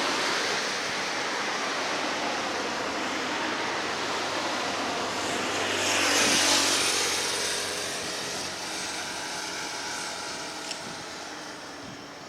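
A vehicle passing by: a rushing noise that swells to a peak about six seconds in and then fades away.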